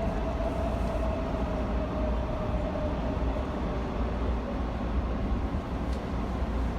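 Steady low rumble of a moving vehicle, with a faint tone that drifts slightly lower over the first few seconds.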